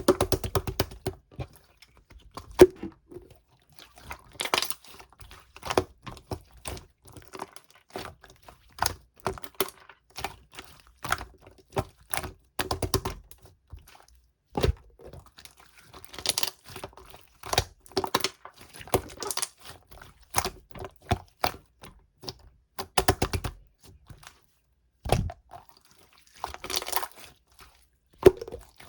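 Slime being pressed, folded and stretched by hand: irregular bursts of sticky clicks, pops and crackles as trapped air bubbles burst, with short pauses between handfuls.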